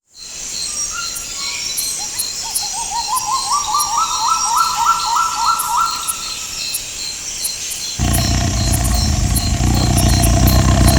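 Jungle ambience. Insects chirp in a steady pulsing rhythm while a bird gives a series of short notes that climb in pitch and speed up, then fade. About eight seconds in, a loud deep rumble with a steady hum cuts in suddenly.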